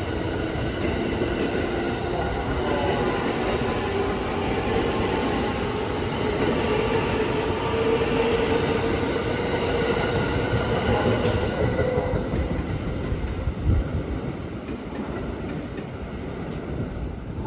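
Limited express electric train running past along the station tracks: a steady rumble of wheels on rail with a whine over it. The whine fades about twelve seconds in as the last cars go by, and a single clunk comes shortly after.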